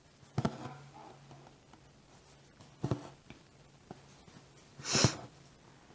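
Cross-stitch needle and floss working through fabric: two soft taps, then a short swish of thread being drawn through near the end.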